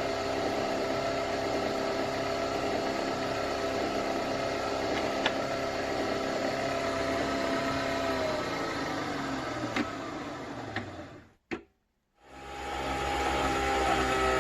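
Nespresso Vertuo Next coffee machine running with a steady motor whine of several tones, as the capsule is spun to brew; about eight seconds in the pitch slides down as it winds down. Near the end the sound cuts out briefly after a click, then a similar whine starts again with slowly falling pitch.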